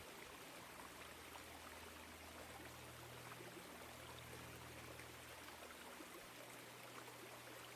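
Woodland stream flowing with a faint, steady babble of water, under a faint low hum.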